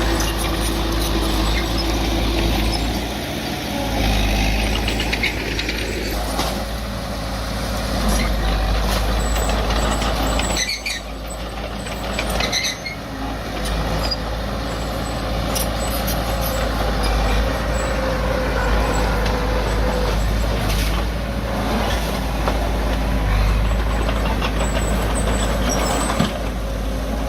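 Diesel engine of heavy earthmoving machinery running under load, its note shifting as it works, with brief dips about eleven and thirteen seconds in.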